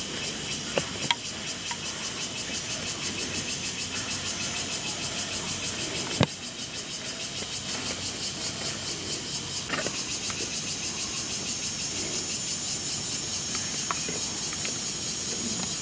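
A steady, fast-pulsing, high-pitched chorus of insects, with a few sharp knocks, the loudest about six seconds in.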